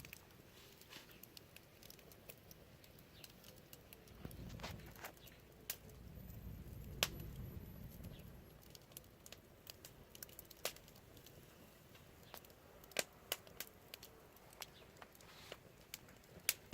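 Wood fire crackling: irregular sharp pops and snaps, a few louder ones midway and near the end, over a low rumble that swells twice in the first half.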